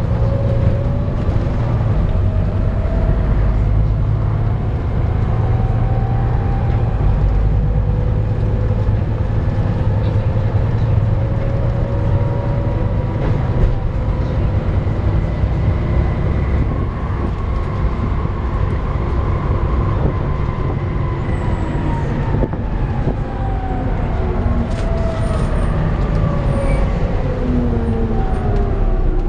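Volvo B7TL double-decker bus's drivetrain heard from inside the bus, over a steady low engine rumble. A whine rises in pitch as the bus gathers speed, holds steady, then falls away in the last third as it slows.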